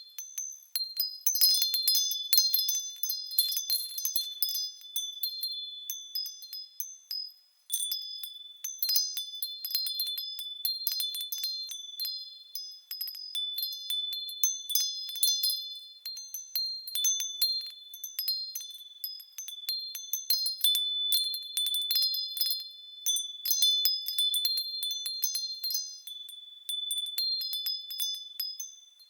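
Japanese fūrin wind chimes ringing as the wind swings them, a high ringing tone with irregular clusters of quick tinkling strikes. The ringing dies away almost to nothing about seven seconds in, then starts up again.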